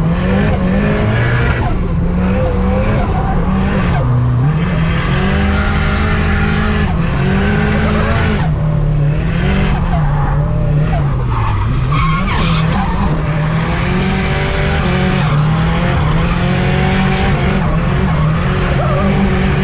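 Turbocharged Nissan CA18 four-cylinder engine being revved hard and backed off again and again, its note rising and falling every second or two, with tyres skidding as the car drifts.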